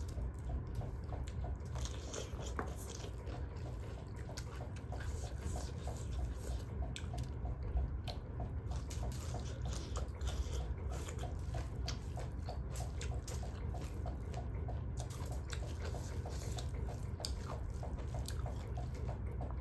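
Close-up wet mouth sounds of a person eating duck curry: chewing, biting and smacking, in many small irregular clicks over a steady low hum.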